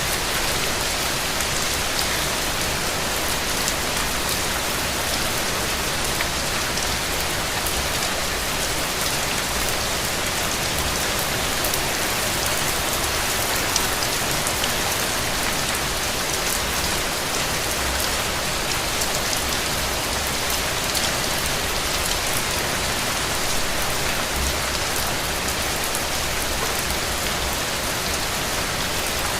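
Steady rain falling, with individual drops heard as small sharp ticks over an even hiss.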